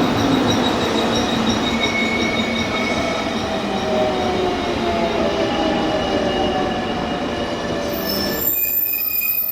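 JR Kyushu electric local train pulling in with wheels and brakes squealing, its motor whine falling slowly in pitch as it slows. About a second before the end the sound cuts abruptly to a quieter high squeal.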